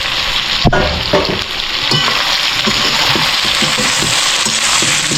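Bird meat curry with onion, spices and freshly added tomato sizzling and frying in a pan while it is stirred, with a sharp knock a little under a second in and a smaller one soon after.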